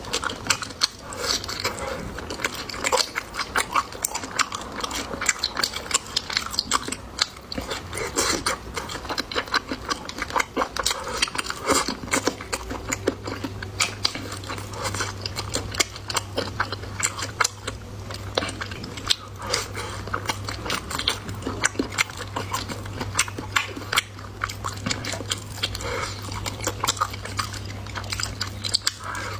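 A person chewing and biting pork belly close to the microphone: a continuous run of wet mouth smacks and clicks. A low steady hum comes in a little under halfway through.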